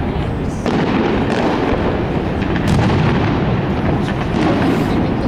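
Aerial fireworks display: shell bursts booming in a dense, unbroken run with sharp cracks on top, growing louder just under a second in.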